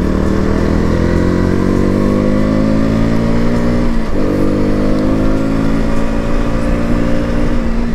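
KTM Duke 200's single-cylinder four-stroke engine pulling under acceleration, its pitch climbing steadily. About four seconds in the pitch drops briefly at a gear change, then climbs again and holds at a cruise.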